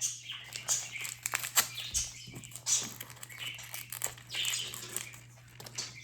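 Plastic packaging crinkling and rustling in irregular bursts as a toy is unwrapped by hand.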